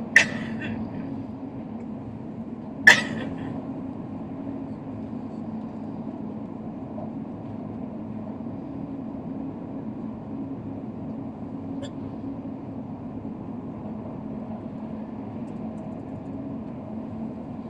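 A high-speed train running with a steady rumble and a low, even hum. Two sharp knocks come through it, one right at the start and another about three seconds in.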